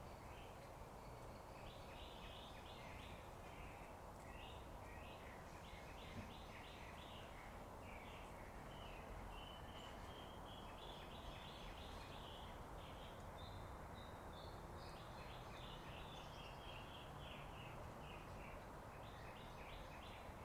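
Faint songbirds chirping: many short repeated notes and brief trills go on throughout, over a steady low background rumble.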